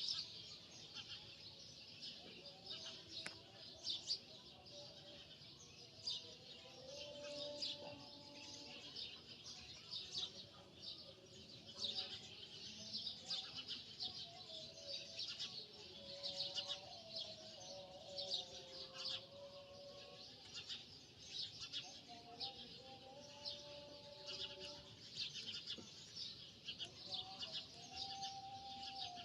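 A dense, continuous chorus of small birds chirping rapidly, faint, with a soft wavering tone underneath.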